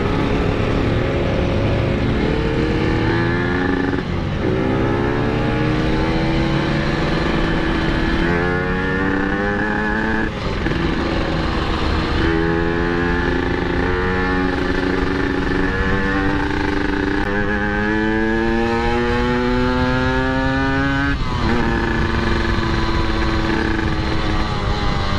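Yamaha RX-King single-cylinder two-stroke engine running through an aftermarket exhaust while riding: the revs climb and drop back several times as it pulls through the gears and eases off, with stretches of steady running between.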